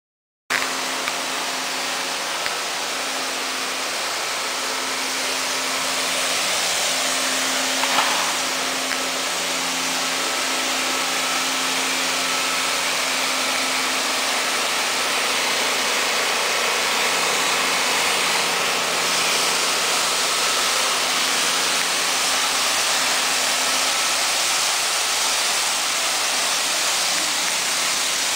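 Karcher DB500 floor scrubber-drier running: a steady motor hum under a loud, even hiss of its suction, with one brief knock about eight seconds in.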